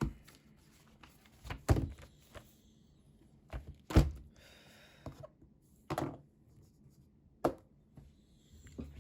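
Scattered dull knocks, about five over several seconds with the loudest about four seconds in, and a short scratchy rustle just after it.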